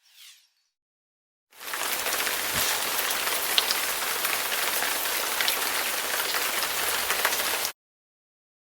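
Rain sound effect: a steady patter of rain on a surface, starting about a second and a half in, running for about six seconds and cutting off suddenly. A short faint swish comes just before it.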